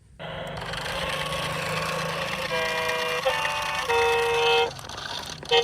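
A steady engine-like hum and hiss, then from about two and a half seconds three horn toots in a row, each at a different pitch, the last cutting off shortly before the end.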